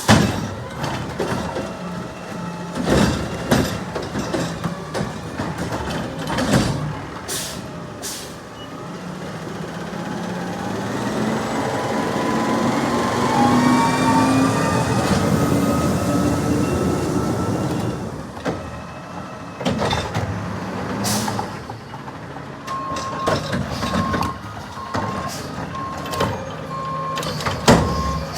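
Garbage truck at work: repeated clanks and knocks, then the diesel engine revving up and holding for several seconds in the middle. Near the end its reversing alarm beeps steadily, about once a second.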